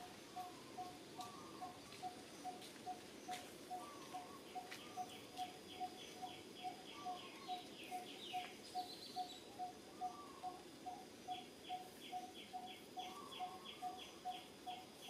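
Forest birdsong: one bird repeats a single short note evenly, about two and a half times a second, throughout. A higher, rapid series of about four notes a second comes in twice, once in the middle and again near the end.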